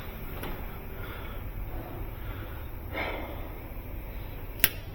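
Handling of a multi-core electrical cable and tools over a low steady background hum: a brief rustle about three seconds in and one sharp click near the end.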